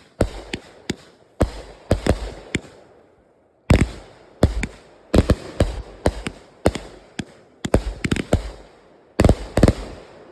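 Fireworks going off: a rapid, irregular string of about twenty sharp bangs, some coming in quick clusters, each with a short fading echo.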